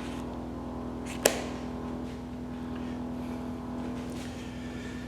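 Steady low hum, one unchanging tone with fainter steady tones above it, and a single sharp click just over a second in.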